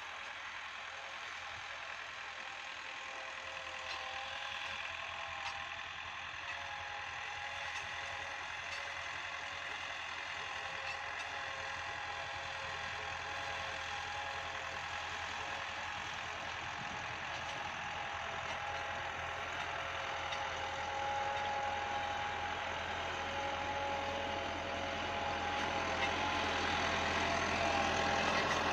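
Massey Ferguson 375 tractor's four-cylinder diesel engine running steadily, growing gradually louder toward the end.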